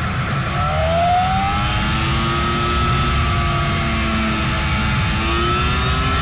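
1962 Ford Falcon with a 302 V8 being driven, the engine running under load with a rumble and a whine whose pitch climbs and eases as the revs change.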